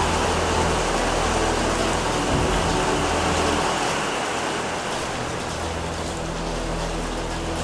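Heavy rain pouring down in a strong thunderstorm: a dense, steady hiss of rain over a low hum, easing slightly about four seconds in.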